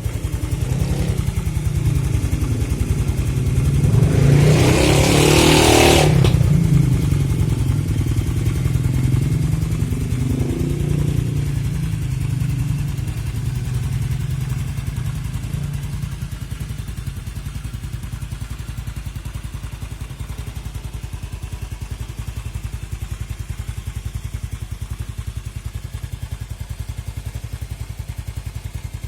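Aerosol spray-paint can hissing in one spray of about two seconds, around four seconds in, over a steady low, pulsing engine-like drone that runs throughout.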